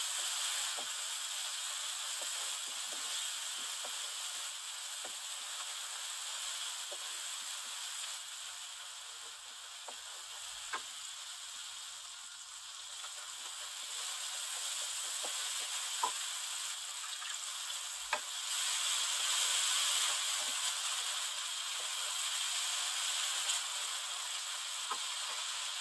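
Onion, tomato and ground-spice masala sizzling steadily in hot oil in a wok as it is fried down (bhuna), stirred with a wooden spatula that gives a few light clicks against the pan.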